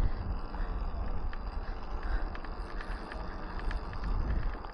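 Electric dirt bike riding along a rough dirt trail: wind buffeting the microphone over a steady low rumble, with small rattles and clicks from the bike and tyres on the ground.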